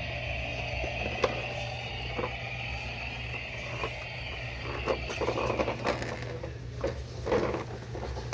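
Plastic toy vehicles being handled and moved: scattered clicks, knocks and brief scrapes over a steady hum.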